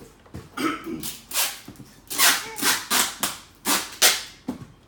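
Scotch tape ripped off the roll in short, sharp pulls, about eight in quick succession, with a baby's squealing laughter in between.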